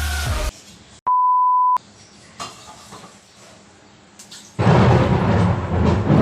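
A single steady electronic beep, one pure tone lasting under a second, about a second in. After a quiet stretch, a loud rushing noise sets in near the end.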